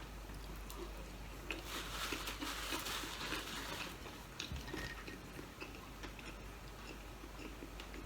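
Close-up eating sounds: chewing and biting, with a longer crackly stretch about one and a half to four seconds in and scattered small mouth clicks.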